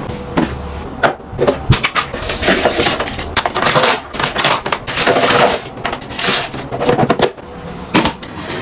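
Close-up handling of kitchen containers and packaging: a busy string of clicks, knocks and crinkly rustling.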